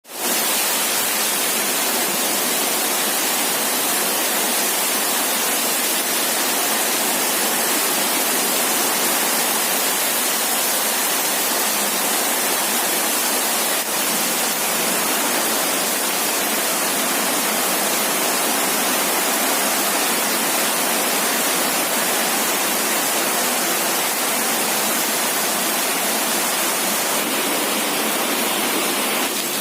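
Heavy rain pouring down: a loud, steady hiss of a downpour.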